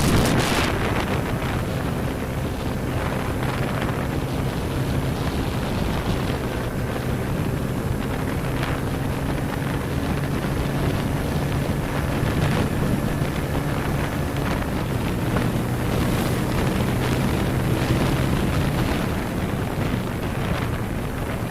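Motorcycle engine running at a steady cruising speed, with heavy wind buffeting on the microphone.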